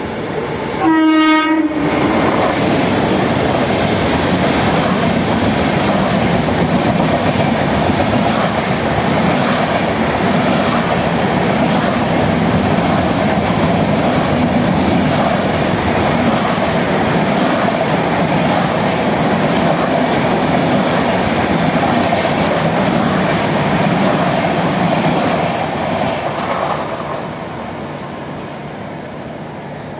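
A train sounds its horn once, briefly, about a second in, then runs past with a steady rumble and wheel clatter on the rails that fades away near the end.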